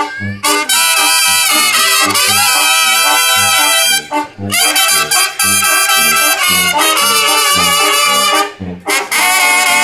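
Mexican banda brass band playing an instrumental passage without singing: trumpets and trombones carry the melody over low bass notes about twice a second. There are short breaks between phrases, at about four seconds and again near the end.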